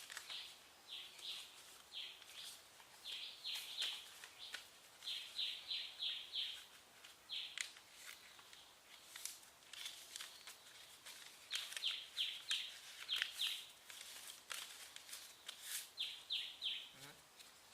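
Small birds chirping faintly in short runs of two to four high notes, repeated through the whole stretch, with scattered soft paper crinkles and clicks from folding.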